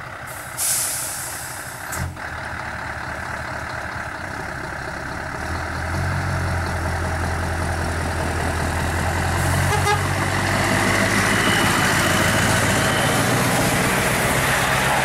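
A heavy vehicle's engine running, with a short hiss of air about half a second in and a click near two seconds; the engine grows louder from about six seconds and stays up.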